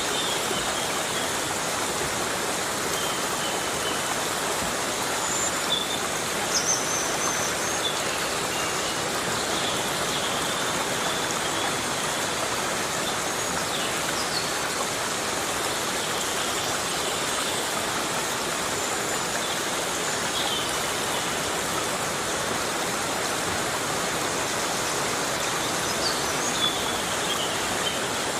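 Heavy rain falling steadily in a rainforest, a dense even hiss, with a few faint short high chirps now and then.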